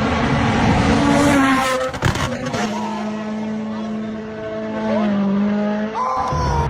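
Rally car engine at high revs, its pitch jumping between gears and then holding steady for a few seconds before rising again near the end, with a sharp crack about two seconds in.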